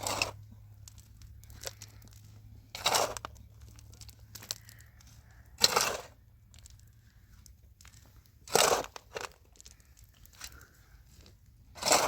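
Five short scraping or rustling strokes, evenly spaced about three seconds apart, over a faint low hum.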